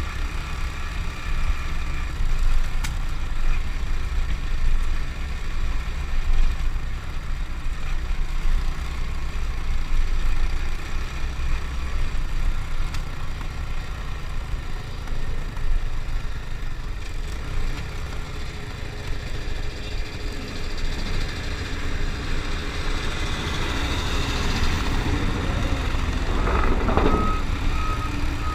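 Honda Win motorcycle engine running under way, with a steady low rumble of engine and wind on the helmet or bike-mounted camera. Near the end another vehicle swells up louder, with a short run of quick beeps.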